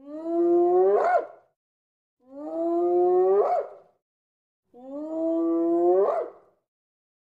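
Spotted hyena whooping: three long calls, each held on a low note and then rising sharply at the end, with silent gaps between them.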